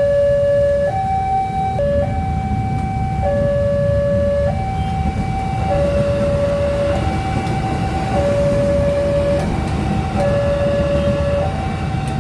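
Railway level-crossing warning alarm sounding its two-note signal, switching back and forth between a lower and a higher tone about every second and a quarter, warning that a train is approaching. A steady low rumble of heavy road traffic runs underneath.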